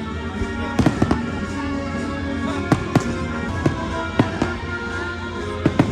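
Fireworks bursting in a dozen or so sharp bangs at uneven intervals, some in quick pairs, over the show's orchestral soundtrack playing from loudspeakers.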